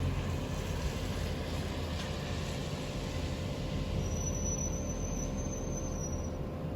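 A vehicle running, a steady low rumble with hiss that starts abruptly, with a faint high whine for a couple of seconds past the middle.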